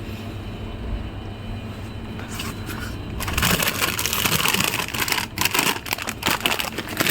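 A steady low background hum, then from about three seconds in the crinkling and rustling of a plastic crisp packet being picked up and handled.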